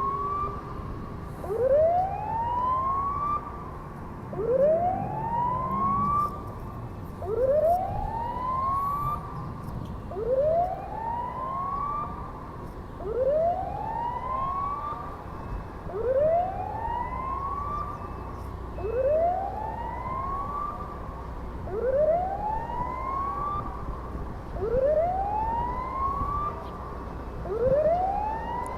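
Japan Coast Guard boat siren wailing in a repeating cycle: each wail rises in pitch over about a second and a half, then fades, and comes round again about every three seconds, some ten times. A steady low rumble runs underneath.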